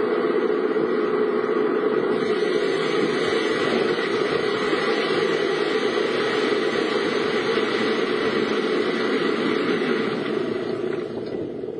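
Steady car noise heard from inside the vehicle: the engine and a continuous hiss. The hiss eases off about ten seconds in.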